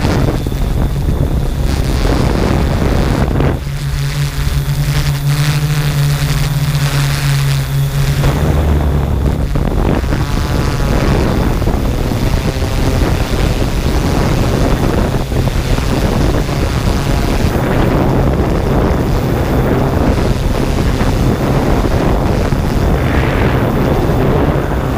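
Quadcopter drone's propellers humming steadily in flight, with wind buffeting the microphone; the hum grows stronger for a few seconds a few seconds in.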